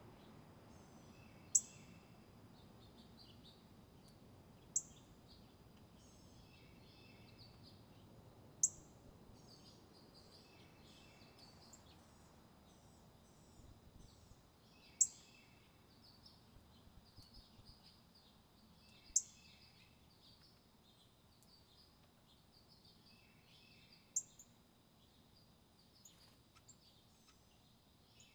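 Small songbirds calling: six sharp, very high notes that drop quickly in pitch, a few seconds apart, each followed by softer high twittering. A faint, steady, thin high tone runs underneath.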